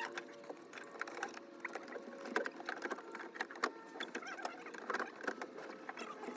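Small electric motor, likely the truck's sunroof motor, running with a steady whine while the mechanism makes many light clicks and ticks.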